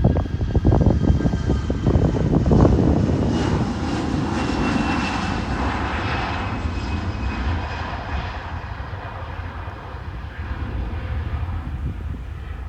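Jet airliner passing by: a steady engine roar and whine whose high tones slowly fall in pitch and fade after about eight seconds, with wind gusting on the microphone in the first few seconds.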